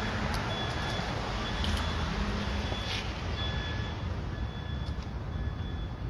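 A vehicle's reversing alarm beeping over and over, short high beeps each under half a second, over the low rumble of its engine.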